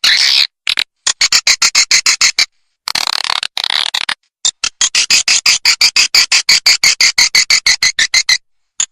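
Swiftlet lure call: rapid trains of high-pitched clicking twitters, about seven a second, broken by two short bursts of dense chattering and brief silent gaps. This is the kind of call played in swiftlet houses to draw edible-nest swiftlets in to roost and nest.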